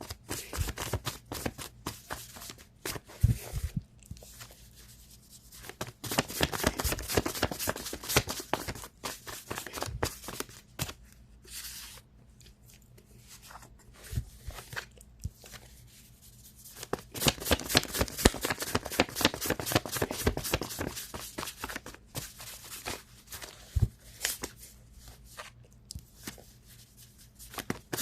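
A deck of tarot cards being shuffled by hand: bursts of rapid flicking and sliding card clicks lasting a few seconds each, broken by short quieter pauses.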